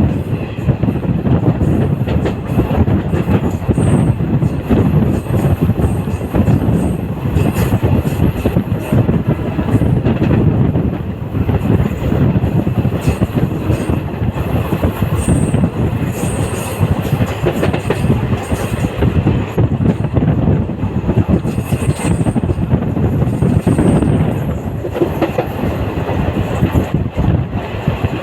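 A moving passenger train heard from on board: the wheels rumble and clatter steadily over the rails, with a few brief high-pitched squeals along the way.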